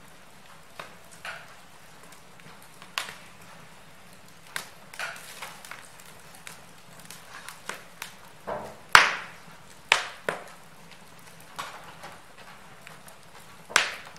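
Wood fire burning in a fireplace, crackling with irregular sharp pops and snaps over a faint steady hiss; the loudest pops come about nine and ten seconds in and near the end.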